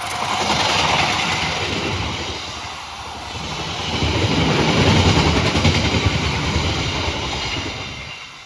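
Train passing at speed, its wheels rumbling and clattering on the rails, loudest about halfway through and fading away near the end.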